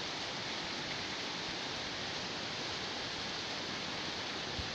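Heavy rain pouring steadily onto a flooded street, an even dense hiss, with a soft low thud near the end.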